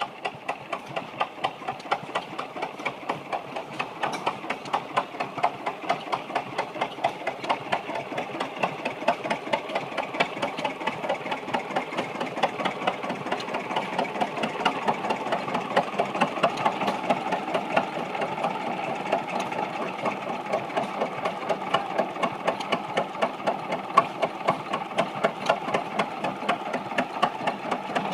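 1926 Cummins Model F stationary engine running steadily, with an even, regular beat of about four a second.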